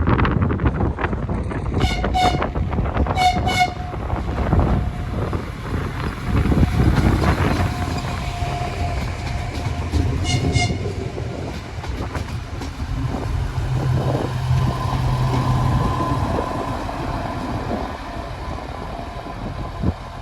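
A train passing close by, its wheels clattering over the rail joints, with three pairs of short, high horn toots: two in the first few seconds and one about ten seconds in. In the later part the clatter gives way to a steadier low running hum.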